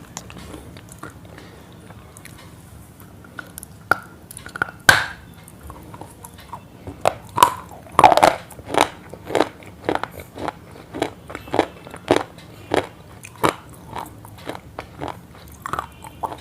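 Crisp crunching, a few scattered crunches at first, then a steady run of about two a second from about seven seconds in.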